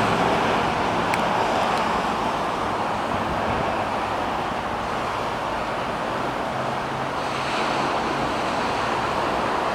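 Motorboat engine running steadily under a constant wash of water and wind noise.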